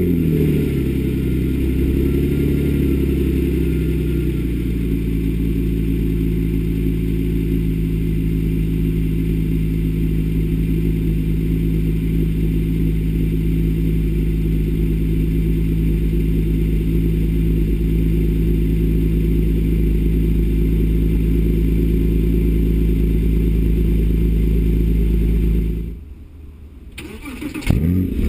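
Porsche Cayman S 3.4-litre flat-six breathing through an FVD Brombacher aftermarket exhaust, starting with a brief flare and then idling steadily; the idle settles lower over the first few seconds. Near the end the engine shuts off for about a second and is restarted with another flare.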